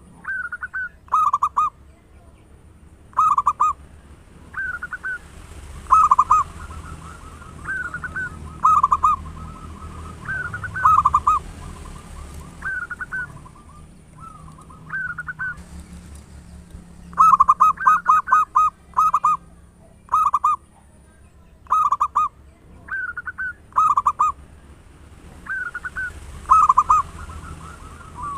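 Zebra dove (perkutut) cooing: short, loud phrases of a few notes, repeated every second or two, with fainter cooing running between the phrases. The phrases come in a quick run of several about two-thirds of the way through.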